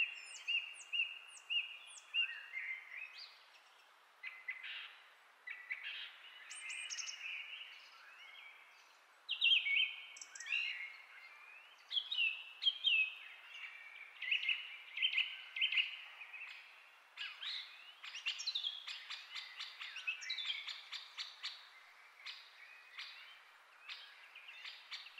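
Small birds chirping: a string of short, quick calls, many sliding down in pitch, going on throughout over a faint steady hiss.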